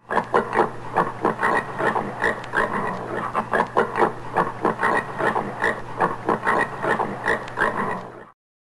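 Common warthog giving a rapid series of short grunts, several a second, which stop suddenly near the end.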